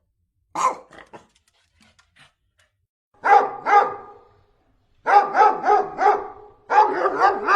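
A dog barking: a single bark, a few faint ones, then a pair about three seconds in, followed by quick runs of four or five barks in a row over the last couple of seconds.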